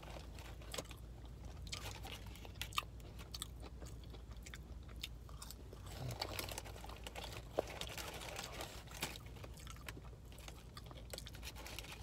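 A person chewing a mouthful of McDonald's fast food close to the microphone, with soft, irregular mouth clicks.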